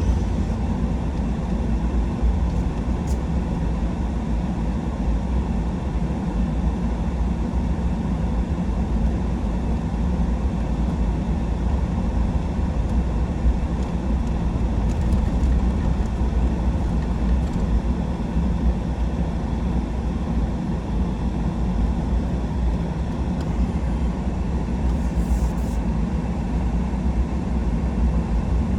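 Steady road and engine rumble heard inside the cab of a truck driving along at an even pace.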